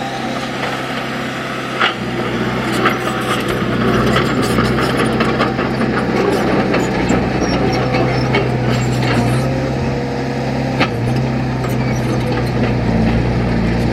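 Heavy diesel earthmoving machine, such as a bulldozer, running steadily at working revs, with a few sharp metallic clanks about two, three and eleven seconds in.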